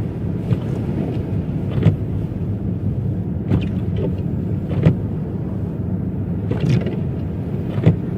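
Car driving through heavy snow: a steady low road rumble, with a short sharp knock or swish about every one and a half seconds.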